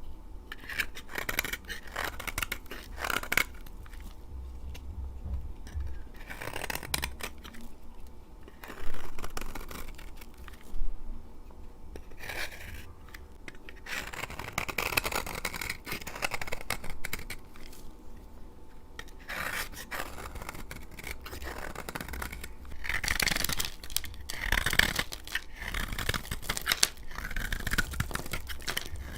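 A blade cutting through dry laundry soap in a run of crisp scraping, crackling strokes, with two louder sharp cracks near the middle.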